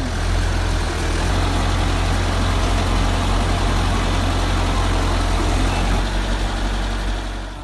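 A bulldozer's diesel engine running steadily: a low drone with a dense wash of mechanical noise over it, cutting off abruptly at the end.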